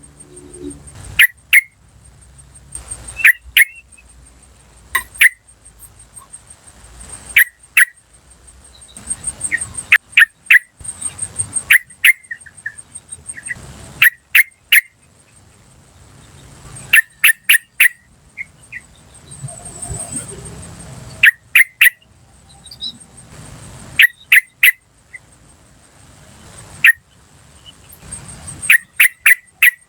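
Yellow-vented bulbul calling: short sharp 'cuk' notes, mostly in quick clusters of two or three, repeated every second or two.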